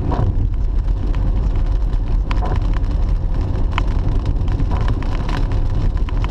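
A car driving, a steady low rumble of road and engine noise, with scattered sharp ticks.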